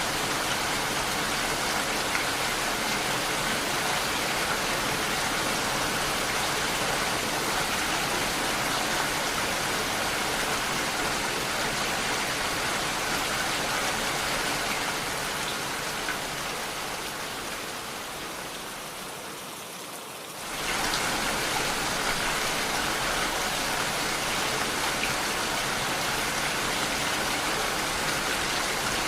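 Steady rain falling, an even hiss of drops. About two-thirds of the way through it fades down over several seconds, then cuts back in abruptly at full level, as at a loop or edit point.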